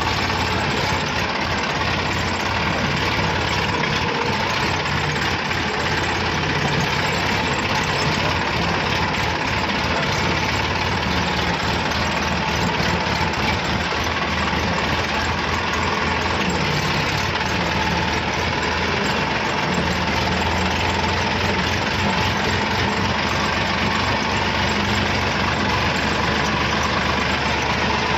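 A heavy vehicle's engine running steadily at a low idle, under a dense, constant noise.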